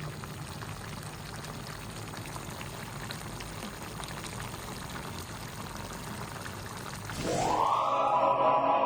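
Steady watery noise with faint scattered pops. About seven seconds in, music starts with a rising sweep.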